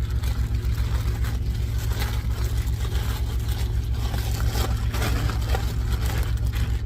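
A truck's diesel engine idling, a steady low pulsing rumble, with scattered light scrapes and knocks over it.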